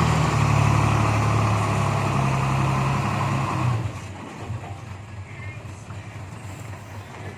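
Heavy machine's diesel engine running hard, then dropping to a much quieter idle about four seconds in.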